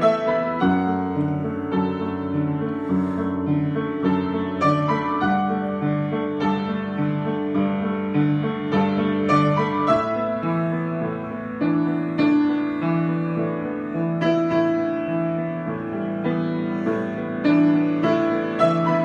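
Solo piano improvisation: sustained chords in the middle and low register under a melody of single notes, changing every half second to a second at an even, unhurried pace.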